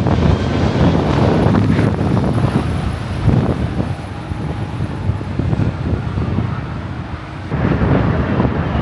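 Wind buffeting the microphone over the low rumble of jet airliner engines; it eases about four seconds in and picks up again near the end.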